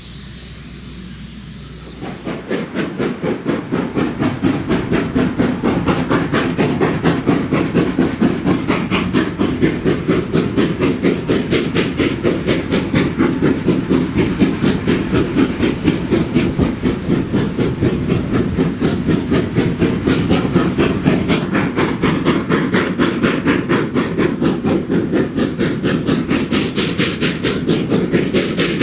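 Small industrial steam tank locomotive working hard, its chimney exhaust beating in a rapid, even rhythm with steam hiss. The beats start abruptly about two seconds in.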